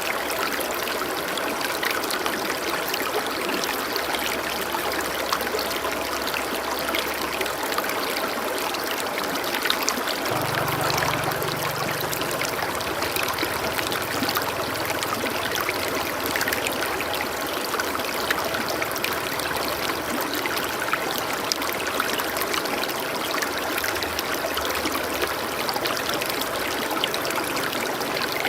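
Flowing stream water, rushing and trickling steadily. A faint low hum comes and goes underneath.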